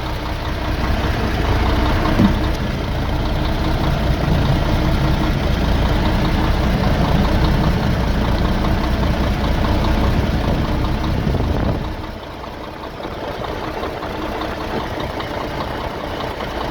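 A truck's diesel engine idling, with a loud low rumble that eases off about twelve seconds in and leaves a quieter steady running sound.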